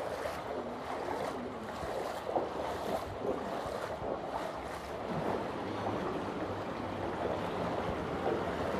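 Waterfall: a steady rush of falling water, a little louder from about five seconds in.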